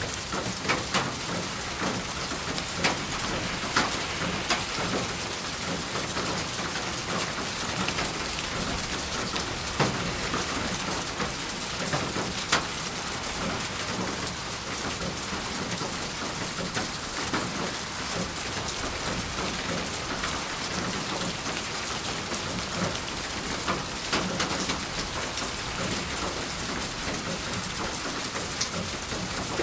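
Steady rain falling, a dense even hiss of drops, with sharper single drops striking now and then.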